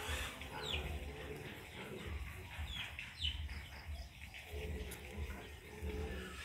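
Birds calling: a few short chirps that slide down in pitch, over a low rumble.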